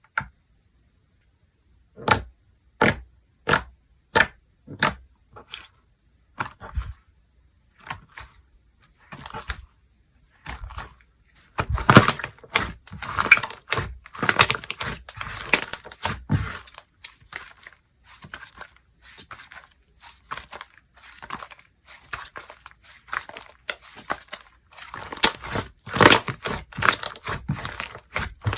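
Slime being played with by hand: a run of separate sharp clicks, then stretches of dense crackling and popping as it is pressed and squeezed.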